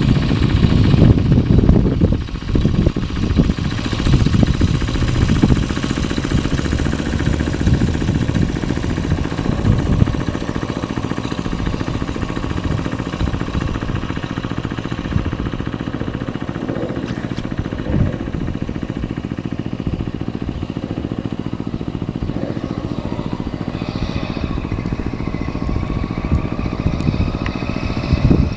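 Small motorized-bike engine running, loudest and uneven for the first ten seconds, then steadier, with a rising rev near the end.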